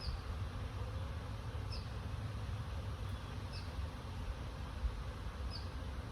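Wind blowing outdoors, a steady rush with a low rumble of gusts buffeting the microphone. A short high chirp repeats about every two seconds, four times.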